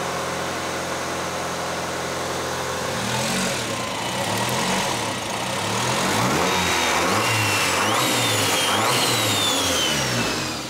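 Turbocharged Honda D16Y4 1.6-litre four-cylinder running on its first start after the turbo install, just leaned out after running very rich. It idles steadily at first; about three seconds in its speed starts to rise and fall unevenly, and a faint high whistle falls in pitch near the end.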